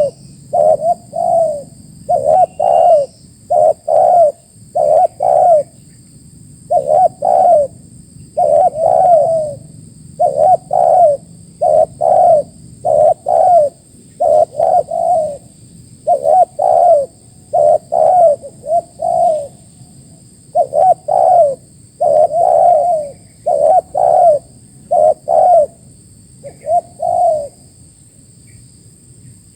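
Spotted dove cooing: phrase after phrase of two to four low coos, with short pauses between the phrases.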